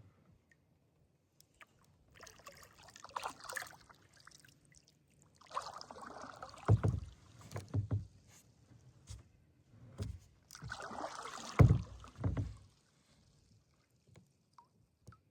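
Kayak paddle strokes: three bouts of splashing water a few seconds apart, with sharp thumps in the later two, the loudest sounds, where the paddle knocks the kayak.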